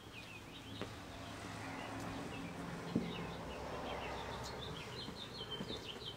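Small birds chirping repeatedly over a faint low rumble, with a single sharp click about three seconds in.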